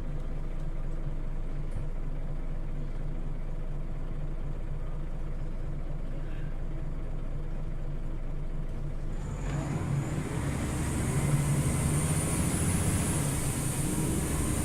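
Scania OmniLink city bus engine running steadily at low revs from inside the bus. About nine and a half seconds in, the bus pulls away, and the engine and road noise grow louder and fuller.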